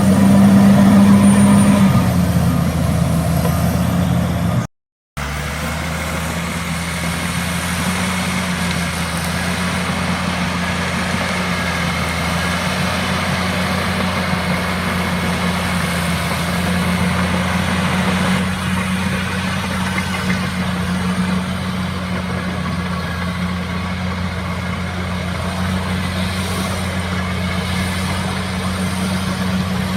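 Bulldozer's diesel engine running steadily with a low drone, a little louder in the first couple of seconds. The sound cuts out completely for a moment about five seconds in.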